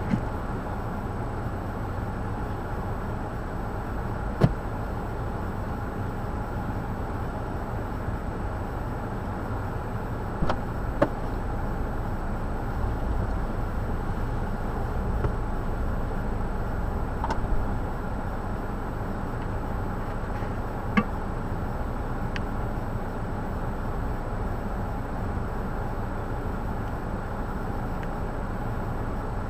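Steady low rumble of a road vehicle, broken by a few short sharp clicks.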